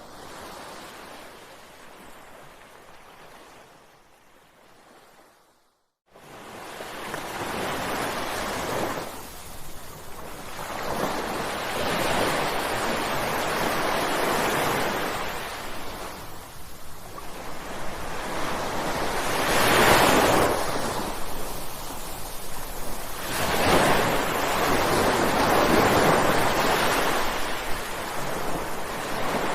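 Ocean surf: waves breaking and washing in, swelling and falling every few seconds. The sound is faint and fading at first, cuts out briefly about six seconds in, then returns louder as the breakers come in.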